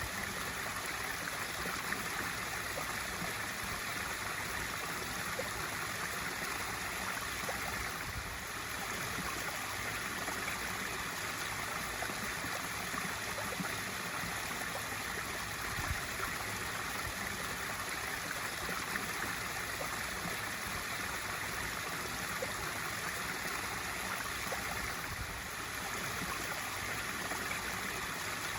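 Pool waterfall feature pouring steadily into a swimming pool: a continuous, even rush and splash of falling water.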